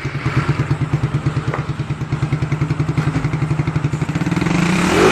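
Suzuki Raider 150 motorcycle's single-cylinder four-stroke engine idling through a stock Suzuki Shogun 125 exhaust pipe, with an even pulsing beat. Near the end it begins to rev up, the pitch rising.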